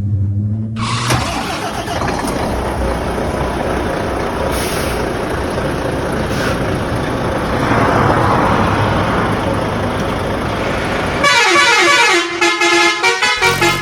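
Loud, steady vehicle noise for about ten seconds, then a horn honking in a quick run of short toots near the end.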